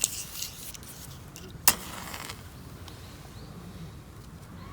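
Faint handling and rustling noises with one sharp click just under two seconds in.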